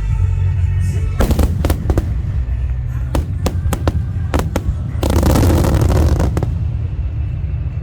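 Fireworks display: a steady deep rumble of booms with sharp bangs from about a second in, and a dense spell of crackling around five seconds in, over faint background music.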